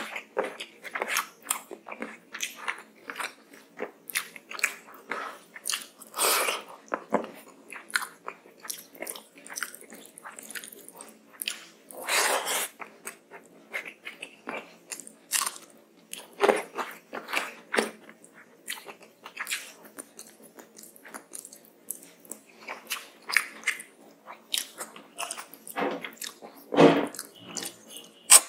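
Close-miked eating sounds: wet chewing and lip-smacking of hand-eaten rice and curry, with a steady run of irregular clicks and a few longer squelchy bursts.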